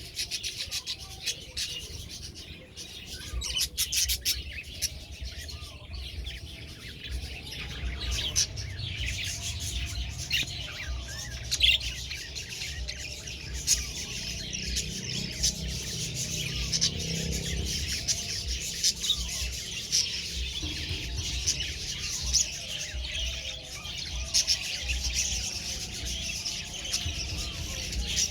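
Budgerigars chirping and chattering continuously, many short overlapping calls at once, over a low rumble.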